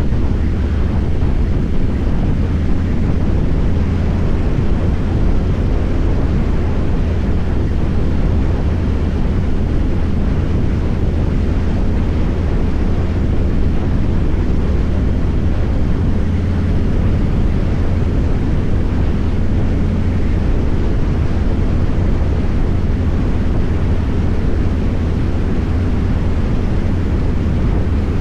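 Harley-Davidson Fat Boy's V-twin engine running at a steady cruise while riding, mixed with heavy wind noise on the microphone.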